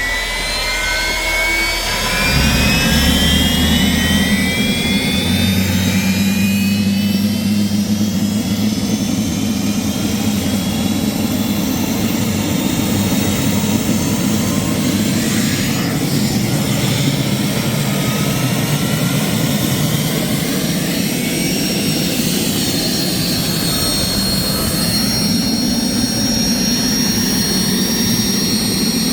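GTD-350 helicopter turboshaft engine starting and running on the ground: a whine rising in pitch as it spools up, then about two seconds in a louder low rumble comes in and the engine settles into steady running. A high steady whistle grows stronger near the end.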